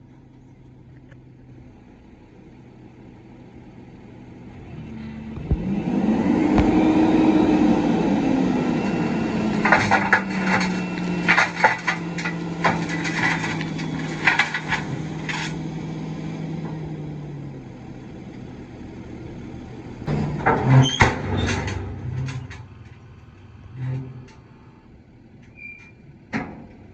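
CAT 312 excavator's diesel engine revving up under hydraulic load, the pitch rising quickly and then settling into a steady drone for about ten seconds, with a run of sharp clanks and knocks from the working machine and its load. A second, shorter cluster of knocks comes near the three-quarter mark.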